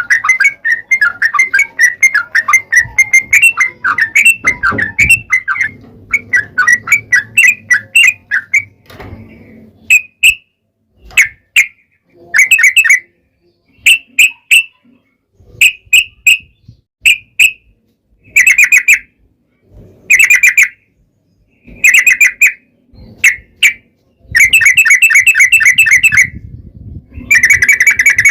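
Yellow-vented bulbul (trucukan) song, loud and fast: rapid strings of chattering notes, unbroken at first, then short separated phrases every second or two and a longer burst near the end.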